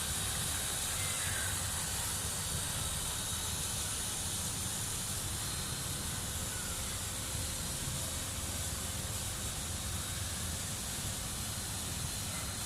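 Steady motor hum with hiss from a homemade fishing-rod repair machine driven through a grinder gear head. It is turning a glued rod so the glue cures evenly.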